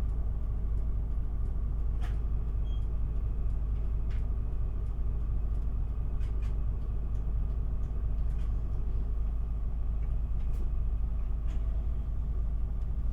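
Interior of an Isuzu Erga city bus moving off from a stop: its diesel engine and the road noise make a steady low rumble inside the cabin. A few faint clicks or rattles sound about 2, 4 and 10 seconds in.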